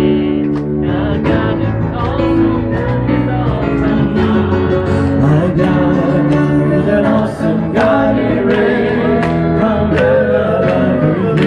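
Singing with instrumental accompaniment: a worship song sung without a break.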